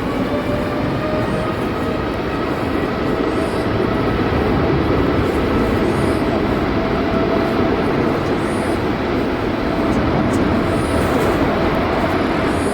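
Boeing 787-8's twin GEnx-1B turbofans at takeoff power: a loud, steady jet roar with faint whining tones over it.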